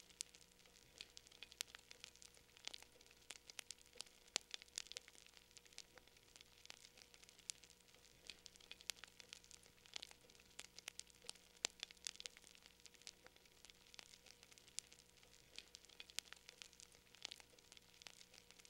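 Wood fire burning in a fireplace, crackling quietly with irregular sharp pops and snaps, several a second, over a faint steady hum.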